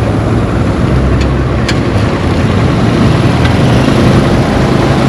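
A motor vehicle's engine running steadily under an even rush of road noise, with a constant low hum.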